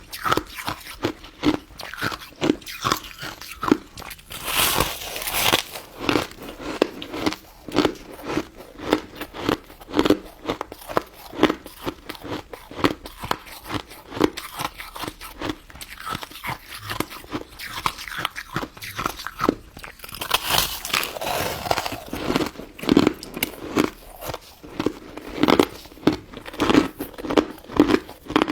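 Close-up crunching and chewing of a crisp crystal snow ice dessert, bite after bite in quick clicking crunches, with two longer hissing stretches about five and twenty-one seconds in.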